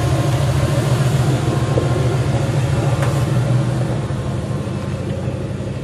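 A 4x4's engine running steadily at low revs as it crawls a trail, easing off a little over the last couple of seconds.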